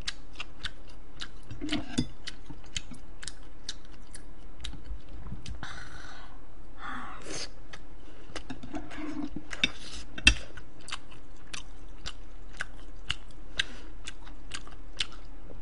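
Close-miked chewing of a person eating, with a run of small wet mouth clicks, two or three a second, and a few longer, wetter noises midway. A single sharper knock about ten seconds in.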